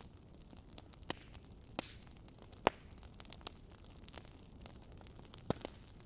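Logs burning in a fireplace: a faint steady rush of the fire with scattered sharp crackles and pops, the loudest a little before the middle.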